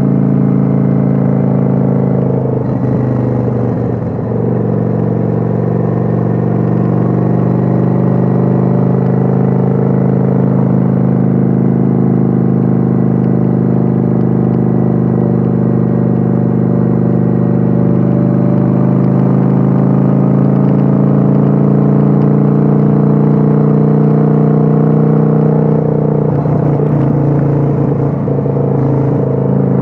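Kawasaki Vulcan 900's V-twin engine running steadily while cruising, heard on board the motorcycle. The engine note briefly wavers twice, a few seconds in and near the end.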